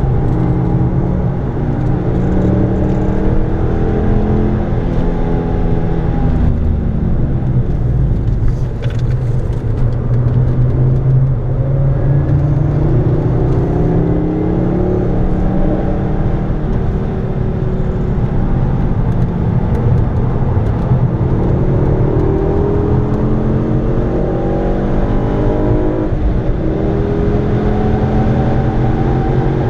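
Ford Focus ST engine heard from inside the cabin, pulling hard at full throttle, its note climbing steadily and then falling away sharply about six seconds in and again late on, over steady tyre and road noise.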